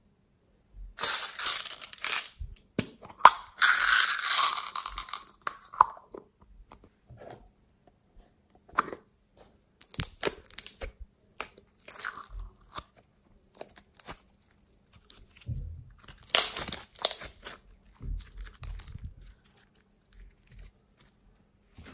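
Slime being squeezed and pressed by hand, crackling and crunching in irregular bursts, with the longest stretches a second or two in and again about two thirds of the way through.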